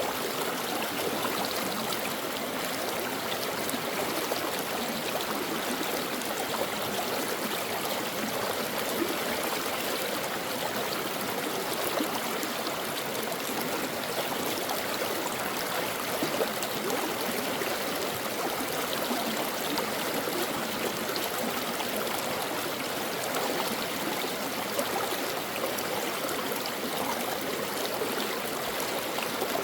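A shallow stream flowing and burbling over rocks, a steady, even rush of water that does not change.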